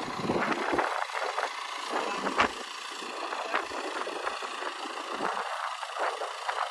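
A vehicle engine running steadily, with scattered knocks and rattles; the sharpest knock comes about two and a half seconds in.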